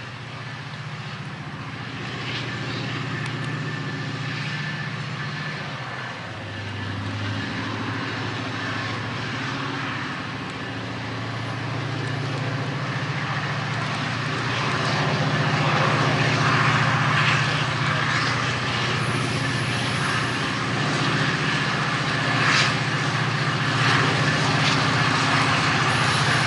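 Diesel locomotive engine running, its pitch shifting about six seconds in and the sound growing louder as it draws closer, with gusting wind noise.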